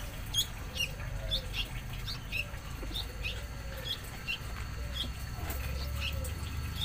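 A small bird chirping repeatedly: short, high, downward-slurred notes about twice a second.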